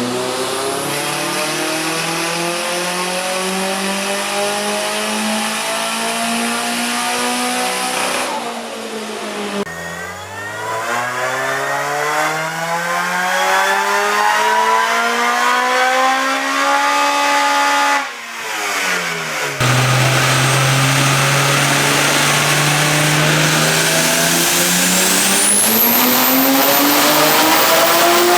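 Car engines making full-throttle pulls on a chassis dynamometer, the engine note climbing steadily in pitch through each run. The sound breaks off abruptly about eight seconds in and again around eighteen seconds before a new pull starts, and a high whine rises near the end.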